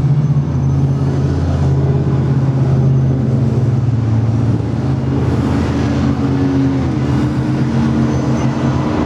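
2011 Harley-Davidson Fat Bob's fuel-injected 96-cubic-inch V-twin running steadily at idle through short Vance & Hines exhaust pipes.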